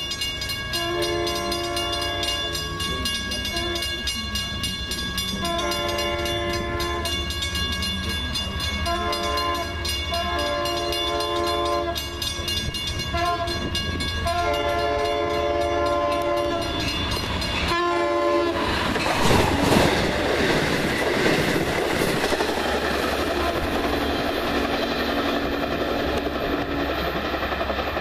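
Diesel locomotive's multi-note air horn sounding a series of long and short blasts as the train approaches. The horn stops about two-thirds of the way through, and the train then passes close with a loud rush of wheel noise and rail clatter.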